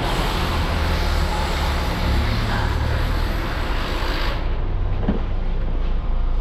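Toyota Altis 1.6 four-cylinder engine idling steadily with the air conditioning on, a smooth, even idle now that four new ignition coils have cured the misfire. A rushing hiss over the engine hum drops away about four seconds in.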